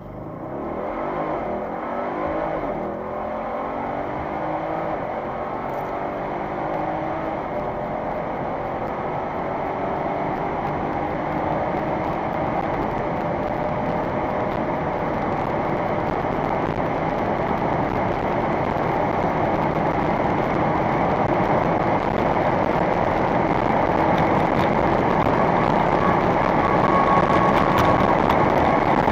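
Audi RS6 C7's 4.0-litre twin-turbo V8 accelerating hard: the engine note rises over the first seconds, dips briefly at a gear change about three seconds in, then becomes a dense rush of engine and road noise that grows steadily louder as speed builds.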